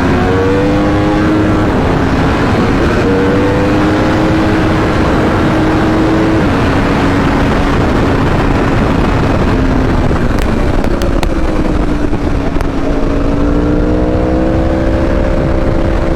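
A vehicle engine at a steady cruise under heavy wind and road noise. Its pitch holds level, sags a little around the middle, and climbs slightly again near the end.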